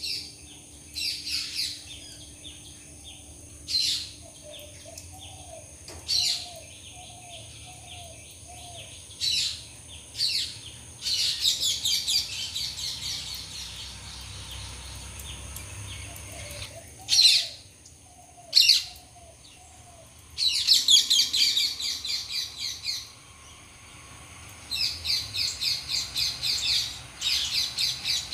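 Birds chirping in repeated bursts of rapid, high chatter. Twice, a series of about five short, softer, lower calls is heard between them.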